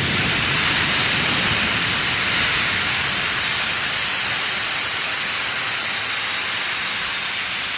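Air rushing out of a large farm tire as it is deflated: a steady, loud hiss that eases slightly near the end.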